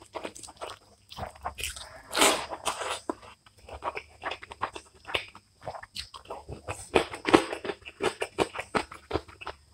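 Close-miked chewing and wet mouth clicks of someone eating rice and rohu fish curry by hand, irregular and continuous, with one longer, louder wet sound about two seconds in.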